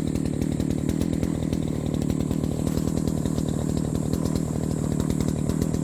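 Two-stroke brush cutter engine running steadily at an even speed.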